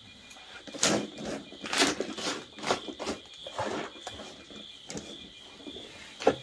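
Irregular rustling and scraping from something being handled, with a sharp knock near the end, over a steady high chirring of insects.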